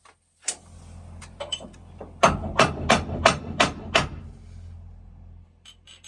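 Hammer blows on metal during carrier bearing work on a truck driveshaft: a single knock and a few lighter taps, then a run of six hard, evenly spaced strikes at about three a second. A faint steady low hum runs underneath.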